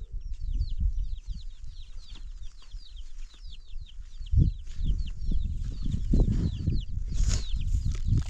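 Birds chirping: a rapid run of short, high, falling peeps, several a second, over irregular low thumps and knocks, with the loudest thump about four seconds in.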